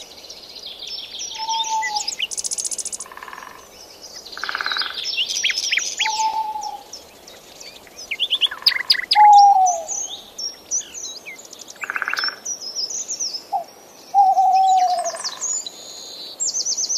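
Songbirds singing together, a dense mix of high chirps, trills and whistles. A lower, clear whistled phrase comes back about four times.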